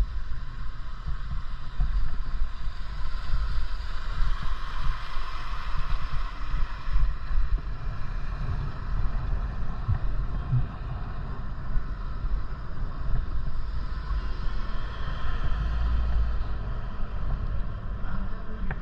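Wind rushing over the microphone of a moving bicycle: a fluttering low rumble with a steady hiss above it.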